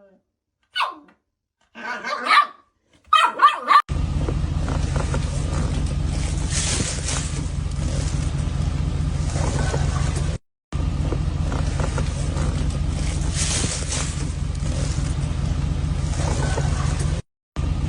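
A dog barks a few short times. About four seconds in, a loud, steady, rumbling noise takes over; it cuts out briefly twice, the way a compilation's edits do.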